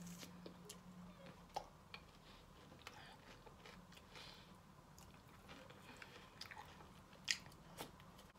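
Faint biting and chewing of a fried ice cream ball with a crunchy cornflake coating: scattered small crunches, the sharpest near the end as another bite is taken.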